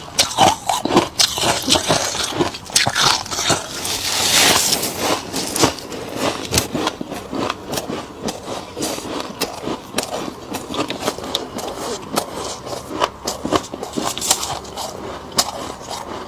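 Freezer frost crunching close to the microphone: dense crackles of frost being bitten and chewed, mixed with scraping, with a longer rasping swell about four seconds in.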